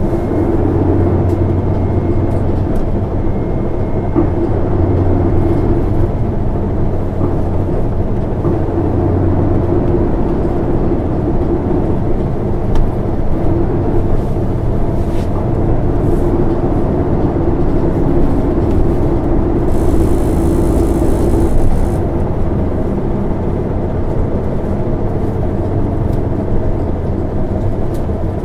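Isuzu Erga (PKG-LV234N2) city bus under way, heard from inside the cabin: the diesel engine's steady hum and the road noise, with a short hiss about twenty seconds in.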